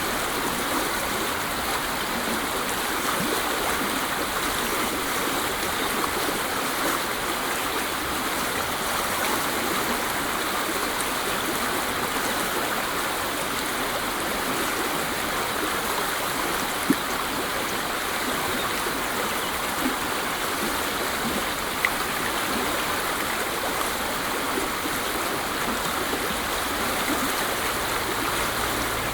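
Waterfall: water falling and splashing in a steady, even rush, with a few brief splashes standing out now and then.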